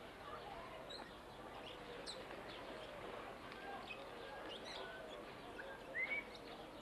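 Small birds chirping and tweeting, with many short high calls scattered throughout and one louder rising call about six seconds in.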